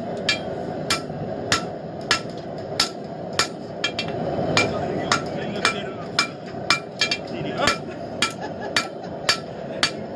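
Steady hand-hammer blows on hot blade steel over an anvil, roughly one and a half to two strikes a second, each with a short metallic ring, forging a hunting knife blade to shape. A steady rushing noise runs underneath.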